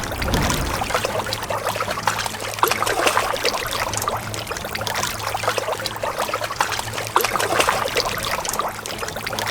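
Water trickling and splashing unevenly, over a steady low hum.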